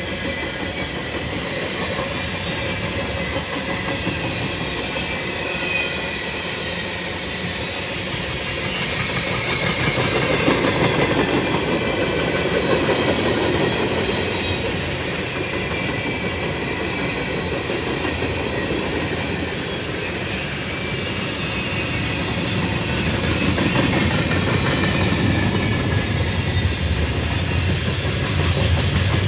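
Long freight train's cars rolling past, a steady clatter of wheels over the rail joints with thin high-pitched tones above it.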